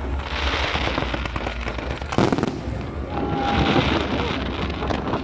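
Fireworks going off: a steady crackle of bursting shells with a loud bang about two seconds in.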